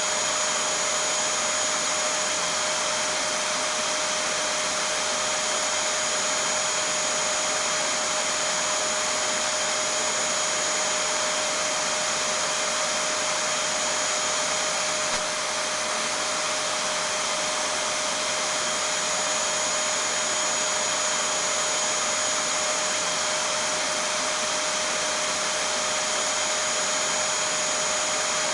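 Vacuum cleaner running steadily: an even rush of air with a constant high whine over it. A brief click about halfway through.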